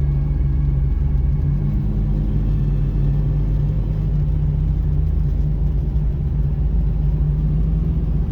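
Mitsubishi Pajero iO's 2.0-litre petrol engine running steadily with a low hum, its pitch rising slightly about a second and a half in.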